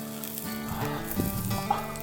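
Chicken sizzling on a shichirin charcoal grill, with background music playing over it.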